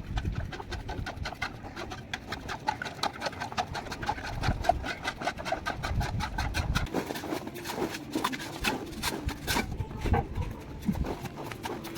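Plastering trowel working a wall: quick, repeated scraping and tapping strokes, several a second.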